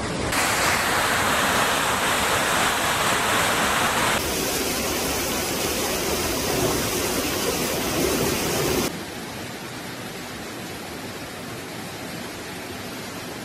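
Steady rush of fast-flowing floodwater, in three stretches joined by abrupt cuts about four and nine seconds in, the last one quieter.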